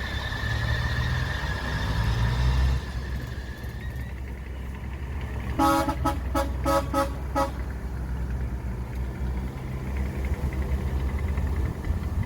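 A heavy machine's horn tooted in a quick run of about six short blasts, lasting about two seconds, over the steady low rumble of a diesel engine. The engine is louder for the first few seconds.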